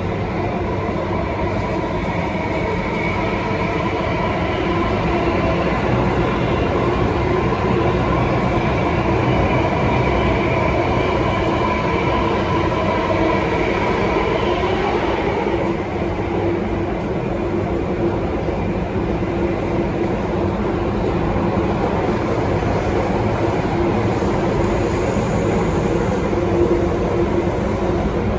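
Alstom Metropolis C830C metro train running between stations, a steady rumble with a motor hum of several held tones. The higher tones die away about halfway through while the rumble and a low hum go on.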